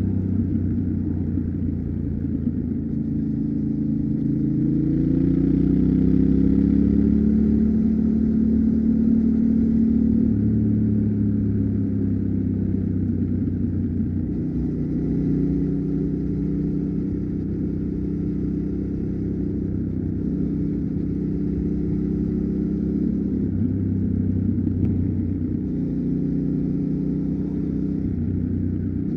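Yamaha Ténéré 700's 689 cc parallel-twin engine running under way. Its note climbs over the first several seconds, then drops and shifts up and down a few more times as the bike changes speed.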